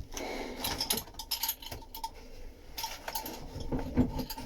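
Irregular light clicks and rattles of a metal fibreglass fin roller and small tools being handled after a resin layup.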